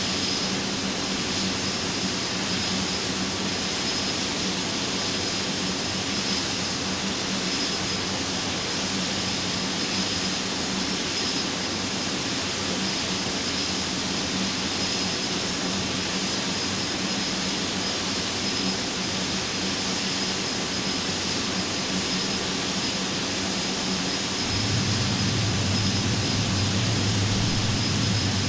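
Steady jet airliner noise from an Airbus A320 in flight on approach, an even rush of engine and airflow with a faint high whine. About 24 seconds in a deeper hum joins and the noise grows slightly louder.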